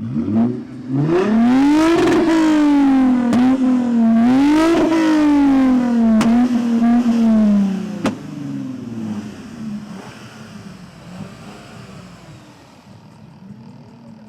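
Car engine revving hard as it accelerates through the gears, the pitch climbing, dropping at each shift and climbing again, with sharp pops along the way. After about eight seconds it drops away and fades into the distance.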